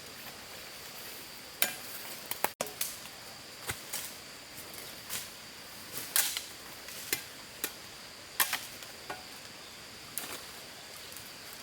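Sharp, irregular chopping strikes, a blade cutting into a small tree and its branches, roughly one every second, over a steady high-pitched hum.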